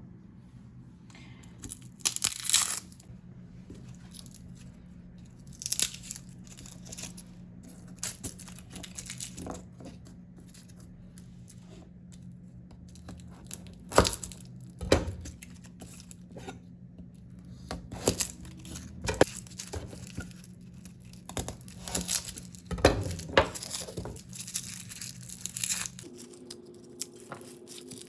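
Kitchen food preparation: a series of short tearing and crinkling noises at irregular intervals, some sharp and loud, over a steady low hum that changes pitch near the end.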